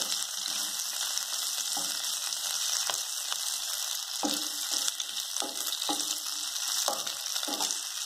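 Boiled potato cubes and cumin seeds sizzling steadily in hot ghee in a kadhai. A wooden spatula stirs them, giving short scrapes and knocks against the pan about once a second.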